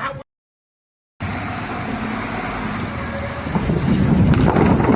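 A brief silence, then loud, steady vehicle noise that starts about a second in and grows louder and rougher, with clattering, about halfway through.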